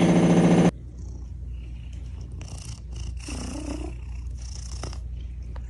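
A domestic cat purring: a loud, deep purr for the first moment, then, after a cut, a softer steady purr with a few short rustles over it.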